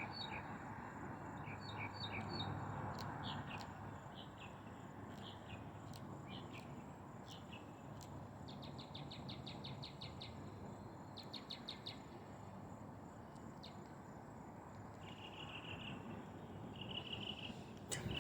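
Faint outdoor nature ambience: small birds chirping in short high notes, then a rapid trill, with three short buzzy insect-like calls near the end, over a low steady background noise.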